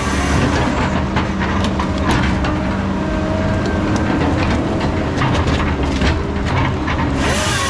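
Heavy diesel logging machine running steadily, with frequent clanks and knocks through most of the stretch.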